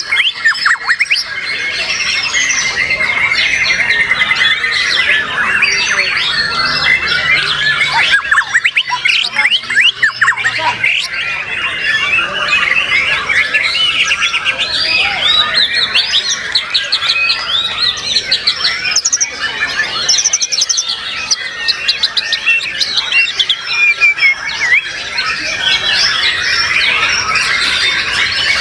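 White-rumped shamas (murai batu) singing: a dense, unbroken stream of varied whistles, trills and chirps, with several birds' songs overlapping.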